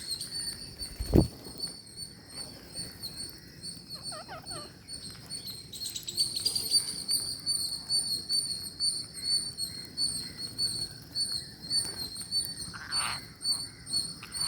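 Ring-necked parrots calling: a high-pitched, rapidly pulsing chirp that runs on without a break, with a few short chirps about four seconds in and louder calls near the end. A single thump sounds about a second in.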